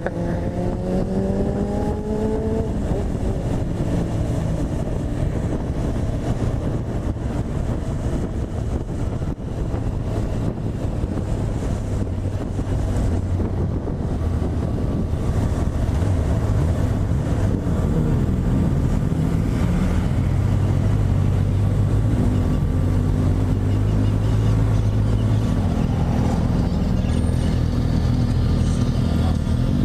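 Honda CB1000R's inline-four engine running while riding, rising in pitch as it accelerates over the first couple of seconds, then holding a steady pitch.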